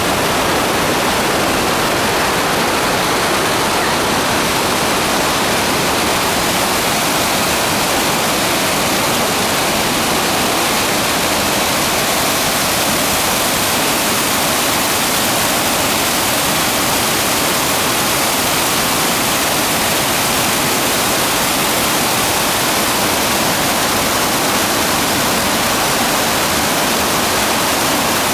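Waterfall: a loud, steady rush of falling water, even and unbroken throughout.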